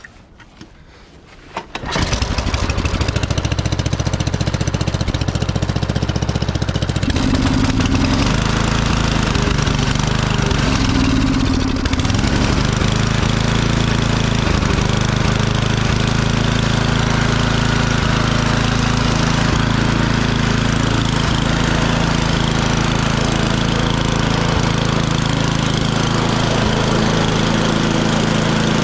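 Cold start of a Murray Ultra 8/27 snowblower's 8 hp engine: a couple of clicks, then the engine catches about two seconds in and runs steadily, its pitch settling after a few seconds.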